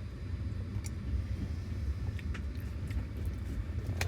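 Steady low rumble of a moving passenger train heard inside a sleeper carriage, with a few light clicks and one sharper click near the end.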